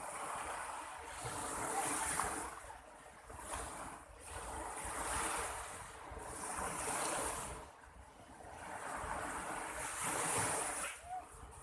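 Sea waves breaking and washing in, the hiss swelling and fading about four times, with some wind on the microphone.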